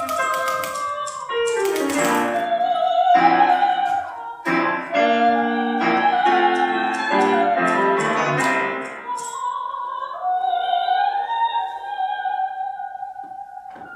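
Soprano singing a high melodic line over piano chords, ending on one long held note near the end.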